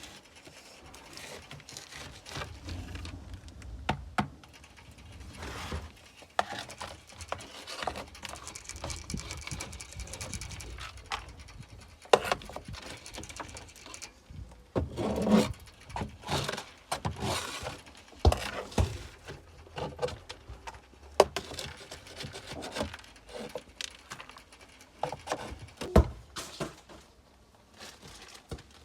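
Rabbit cage being cleaned out by hand: irregular rustling and scraping, with sharp clacks and knocks now and then.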